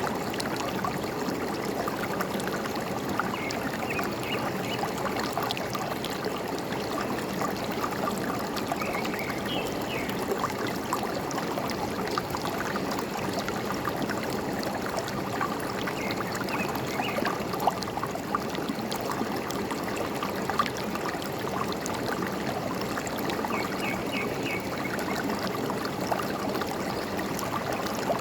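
Forest stream flowing steadily, gurgling and trickling over rocks, with a few faint short bird chirps now and then.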